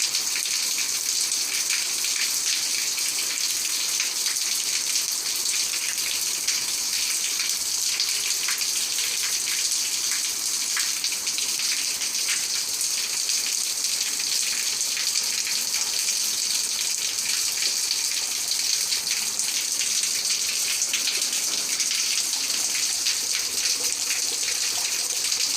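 Heavy rain falling steadily: a dense, even hiss with scattered drop impacts.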